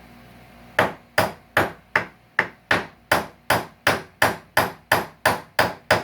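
Hammer tapping in a steady rhythm, nearly three sharp strikes a second, starting about a second in, driving a buried staple out of couch-frame wood.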